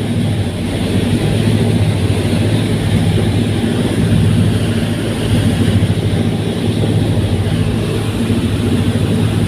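Fast passenger ferry's engines droning steadily while underway, a constant low hum with a rushing hiss over it.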